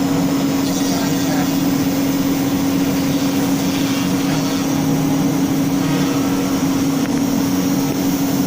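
CNC router spindle running at constant speed, a steady hum with one strong unchanging pitch.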